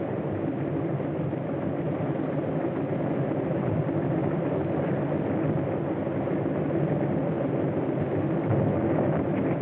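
A steady, unbroken engine running at idle on an early sound-film soundtrack, heard muffled with no high end.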